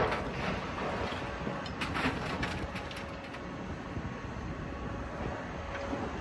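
Heavy demolition machinery running steadily, with scattered crunches and clanks of breaking debris, most of them in the first couple of seconds.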